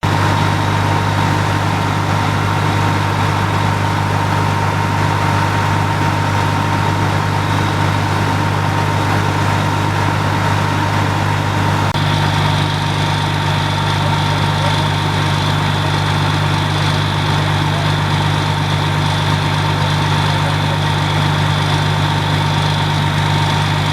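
Fire apparatus engine idling steadily, a loud low hum with a steady high whine over it. The whine gets stronger about halfway through.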